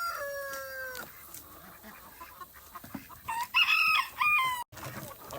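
Rooster crowing: the falling tail of one crow fades in the first second, and a second crow comes about three and a half seconds in.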